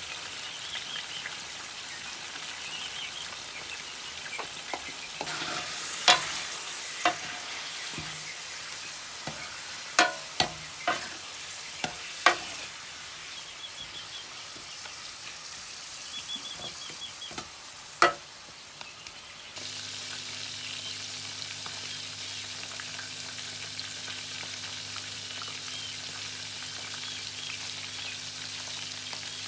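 Chicken frying and sizzling in oil in a karahi while it is stirred, with several sharp clinks of the spoon striking the pan in the first two thirds. A steady low hum starts suddenly about two thirds of the way through and runs under the sizzling.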